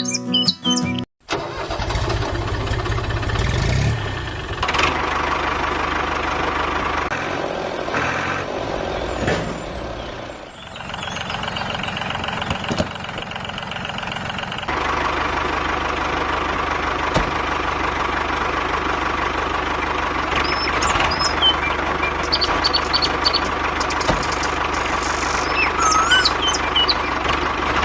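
Motor of a DIY mini tractor running steadily, with its sound shifting a couple of times. Birds chirp over it near the end.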